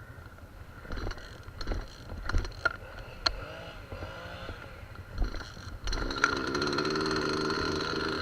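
A few scattered knocks and clatters, then a small engine starts running steadily about six seconds in.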